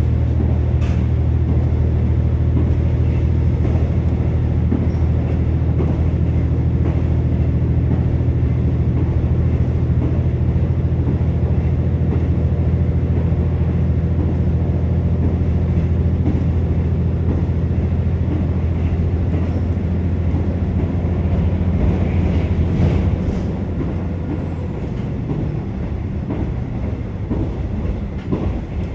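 KiHa 47 diesel railcar running, heard from inside the passenger car: the underfloor diesel engine runs steadily under power. About 23 seconds in, the engine note drops away as the power is eased off, leaving the quieter running noise of the train.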